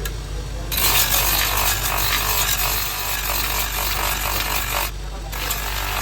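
Woodworking power tool running steadily while its blade cuts into wood, in long loud passes. The cutting breaks off briefly about five seconds in.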